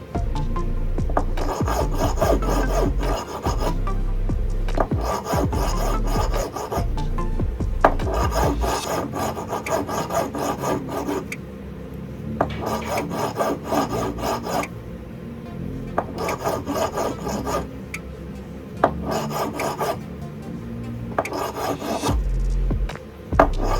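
A hand file rasping on a metal piece of jewelry in repeated strokes of a second or two, with short pauses between them.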